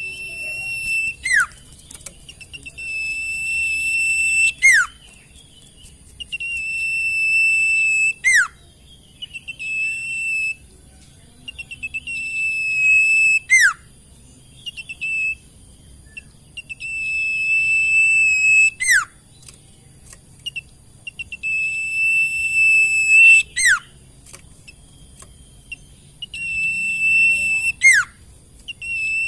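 A sirtu songbird singing: a long, steady, high whistled note ending in a quick falling whistle, repeated about every five seconds, with short scratchy notes between the phrases.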